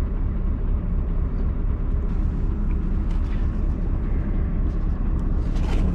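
Scania R580's V8 diesel idling, heard inside the truck cab as a steady low rumble.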